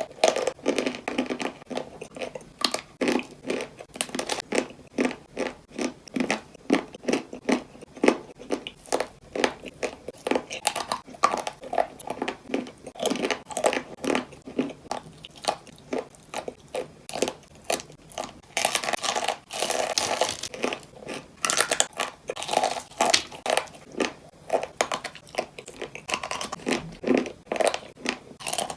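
Close-miked biting and chewing of chalk: a dense, irregular run of crisp crunches, with a brighter, thicker flurry of crunching about two-thirds of the way through.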